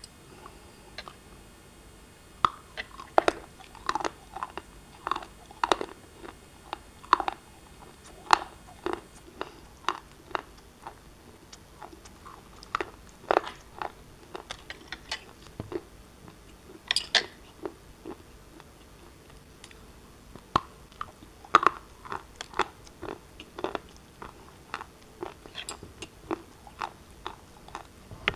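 A person biting and chewing pieces of black shale: an irregular run of sharp, dry crunches and cracks, some much louder than others.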